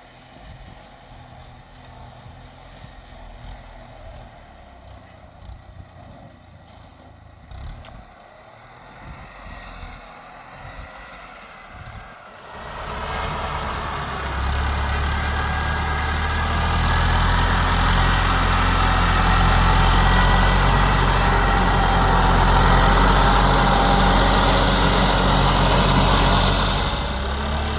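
An engine running steadily with a low hum, faint at first and then much louder from about halfway through, easing off near the end.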